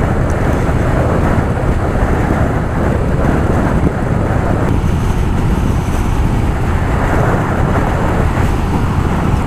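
Stock Harley-Davidson Softail Fat Boy's 103 cubic-inch air-cooled V-twin running steadily under way, mixed with wind rushing over the onboard mic.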